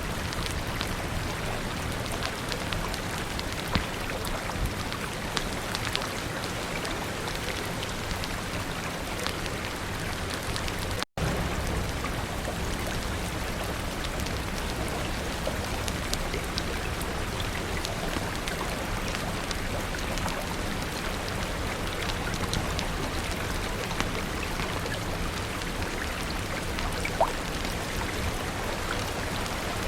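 Steady rain falling, an even hiss scattered with small sharp ticks and a few louder clicks. The sound cuts out for an instant about eleven seconds in.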